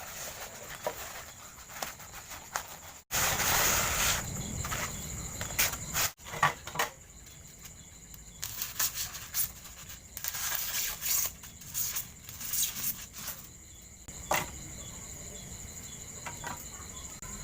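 Hand-handling noise of styrofoam pieces being fitted together: irregular rustling, scraping and light taps, broken off abruptly twice. Insects call steadily in the background.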